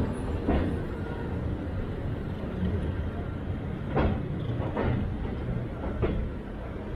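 Railway carriage running along the track: a steady low rumble with irregular clunks of the wheels over the rail joints.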